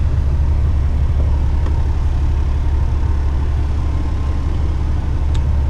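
Heavy rigid truck's diesel engine running with a steady low drone.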